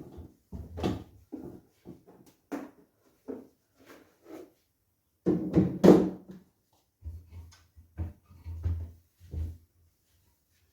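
Irregular knocks, bumps and clatter of household items and fittings being handled during kitchen cleaning, the loudest bump about six seconds in, with a low hum in the second half.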